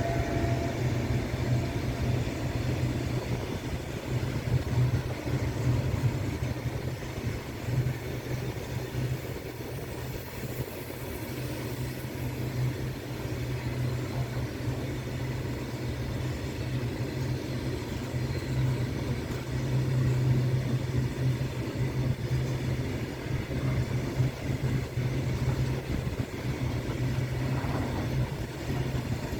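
Freight train rolling past on continuous welded rail: a steady rumble with a low hum and no regular wheel-on-joint rhythm.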